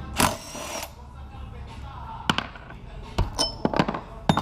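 A small engine stops running, then a brief hissing burst and a scattering of light metallic clinks and knocks, like tools or parts on metal.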